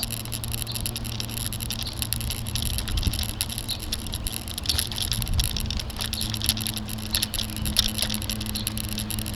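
Rapid, continuous rattling and clicking from a bicycle-mounted camera shaking over a bumpy road while riding, with a steady low hum underneath and a few sharper knocks.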